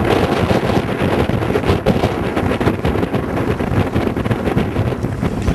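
Wind buffeting the microphone, a loud, steady rushing rumble with constant flutter, over the noise of a boat on the water.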